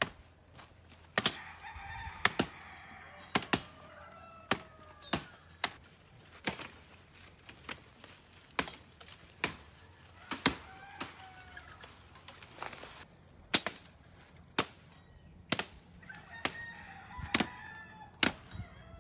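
A long run of sharp knocks, about one a second, from firewood being chopped. Chickens cluck and a rooster crows a few times between the strikes.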